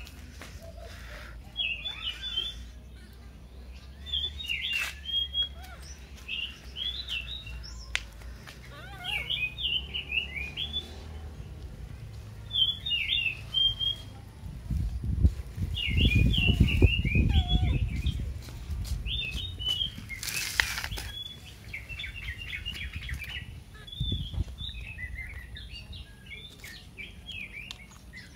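Small birds chirping over and over in short clusters. A low rumble swells about halfway through, and there is a brief hiss around twenty seconds in.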